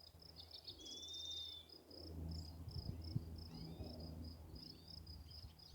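Faint, steady insect chirping: short high-pitched pulses, about five a second. Faint short bird calls and a thin whistled note about a second in sound over it.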